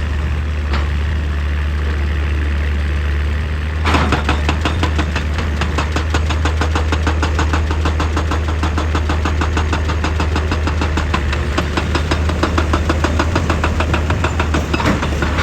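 Excavator's diesel engine running steadily; about four seconds in, a rapid, even hammering of several strikes a second starts over it and keeps going.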